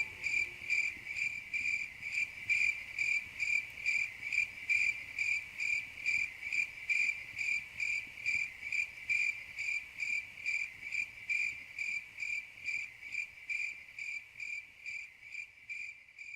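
A cricket chirping steadily, a high pulsed trill repeating about three times a second, getting a little fainter near the end.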